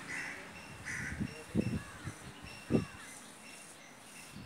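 A bird calls twice in quick succession near the start, with fainter chirping after. A few low thuds, the loudest sounds, come about a second and a half in and again near three seconds.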